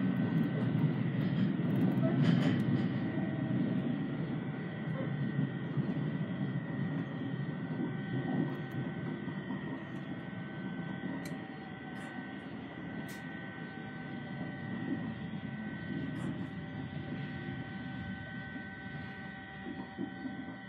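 Cabin running noise of an Aichi Loop Railway 2000 series electric train: a low rumble that fades steadily as the train slows for its station stop, under a constant high hum. A few faint clicks and rattles come through.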